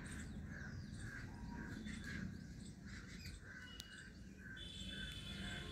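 Faint outdoor birdsong: a bird calling in an even repeating series, about two calls a second. A steady high insect whine joins about four and a half seconds in.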